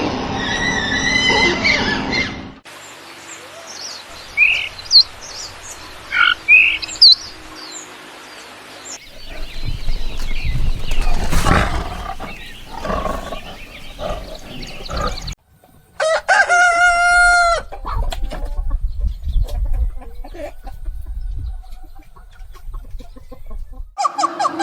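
Chickens clucking and a rooster crowing across a series of short clips that cut abruptly from one to the next. There are scattered short calls early on and one long crow about two-thirds of the way through.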